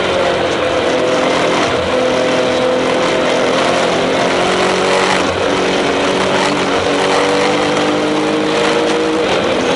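Tuned Porsche 996 Turbo's twin-turbo flat-six engine pulling hard under full load, heard from inside the cabin. The note holds fairly steady for about five seconds, breaks briefly at a gear change, then climbs steadily and drops again near the end.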